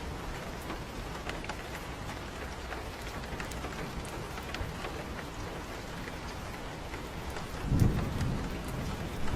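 Steady rain falling on a porch with scattered drop ticks, then thunder rumbling in low and loud about three-quarters of the way through.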